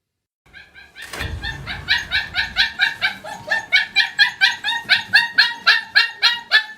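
A dog barking in a rapid, steady string of short yaps, about four a second, starting about half a second in.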